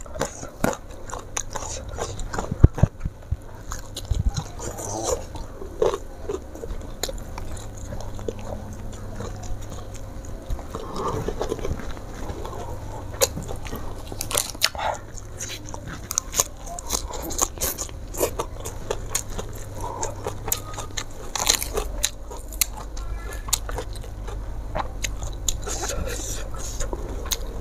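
Close-miked eating by hand: a person chewing and crunching a mouthful of rice, fried fish and raw lettuce, with irregular wet clicks and crackles, and raw lettuce leaves rustling and tearing near the end.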